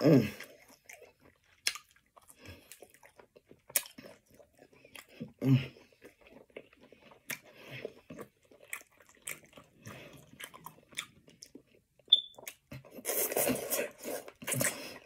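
A person chewing and biting food close to the microphone: scattered short smacks and clicks, busier for a second or two near the end.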